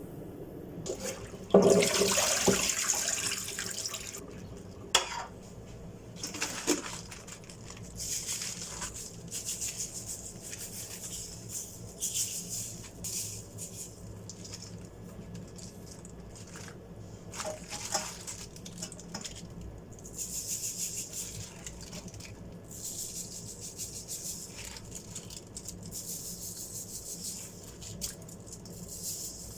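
Water running from a kitchen tap into a sink in several spells, loudest about two seconds in, with a few knocks of things being handled in the sink.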